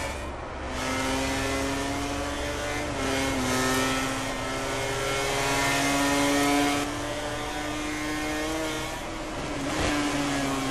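MotoGP racing motorcycle engines (1000 cc four-cylinder prototypes) running at high revs. The engine note holds, then steps and shifts in pitch as the bikes accelerate and change gear, with a brief sharp crack near the end.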